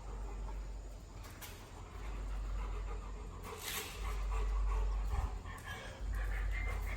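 A dog making small sounds over a steady low rumble.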